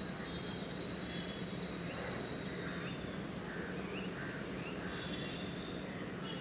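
Birds chirping in short, scattered calls over a steady low rumble of background noise, with a thin high whistle-like tone through the first half.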